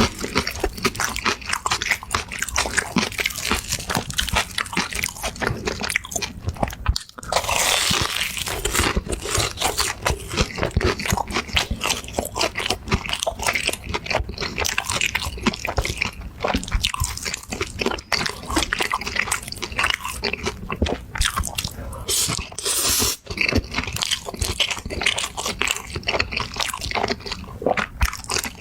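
Close-miked eating: a dense run of crunchy bites and chewing, with a longer hissy crackle about 8 s in and again near 23 s.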